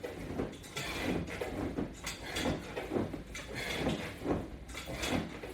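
A person doing sit-ups against resistance bands on a wall-mounted latch bar, making a repeated sound with each rep, about one or two a second.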